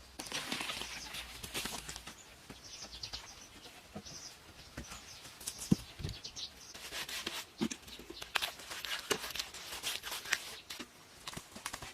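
Irregular scraping with scattered light knocks, one sharper knock near the middle.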